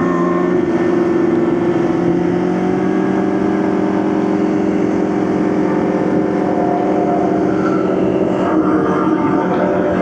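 Motorcycle engine running at a steady speed while riding, holding an even pitch throughout.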